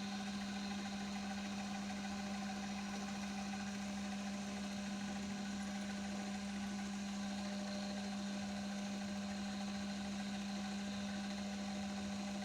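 Metal lathe running with a steady, constant hum while a part is turned down to diameter for a 3/8-24 thread.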